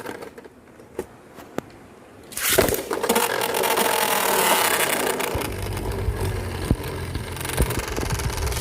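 Beyblade Burst spinning tops launched with a sudden rip about two seconds in, then spinning and grinding against each other and the plastic stadium with a dense rattling scrape.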